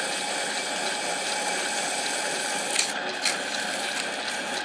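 Harbor Freight mini lathe running with a steady hiss while a camshaft journal is polished down, with two sharp clicks about three seconds in.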